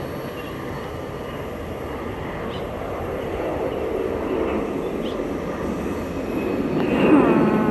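Allegiant Air Airbus A320 taking off: its jet engines make a broad rushing noise that slowly grows louder.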